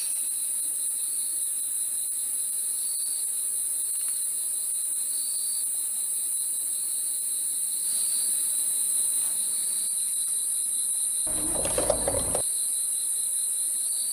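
Steady night chorus of crickets: a continuous high trill with a fainter, pulsing chirp beneath it. About eleven seconds in, a louder noise cuts in for about a second.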